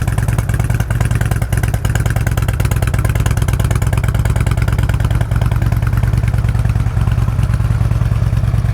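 2007 Harley-Davidson Ultra Classic's Twin Cam 96 V-twin running steadily through aftermarket mufflers. It sounds good and tight, with no mechanical engine noise.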